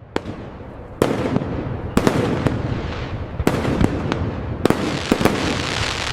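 Fireworks display: a string of sharp aerial bangs, roughly one every half second to a second and some in quick pairs, over continuous crackling.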